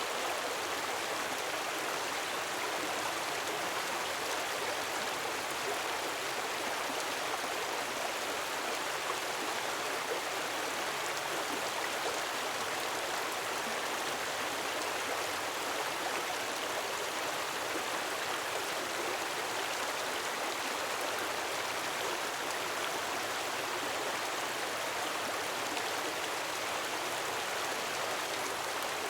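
Gentle waterfall, a steady unbroken rush of falling and flowing water.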